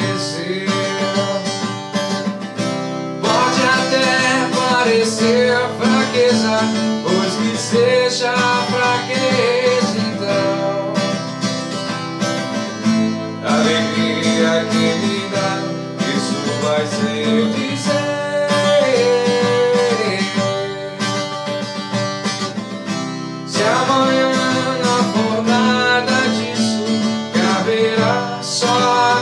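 Acoustic guitar strummed and plucked in a wordless instrumental passage of a song, with a wavering melody line over the chords.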